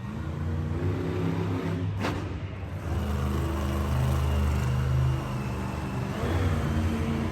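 Monster truck engine running and revving, its pitch stepping up about a second in and again near the end, with one sharp crack about two seconds in.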